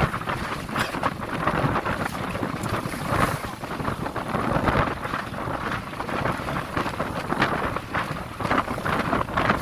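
Strong wind buffeting the microphone over the rush of water and waves around a passenger motorboat in rough, wind-whipped sea. The noise rises and falls in gusts.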